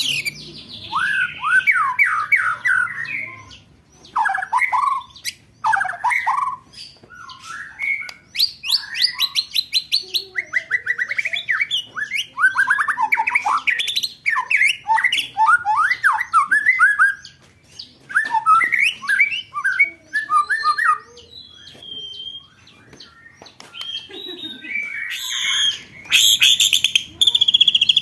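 Songbird song from a masteran training track for competition birds: fast, rattling trilled rolls and varied chattering phrases follow one another with short gaps. Very high, fast chatter comes in near the end.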